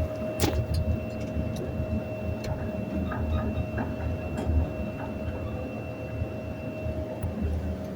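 Elevator car travelling in its shaft, noisy as it moves: a steady whine over a low, uneven rumble, with scattered clicks and rattles. The whine fades near the end.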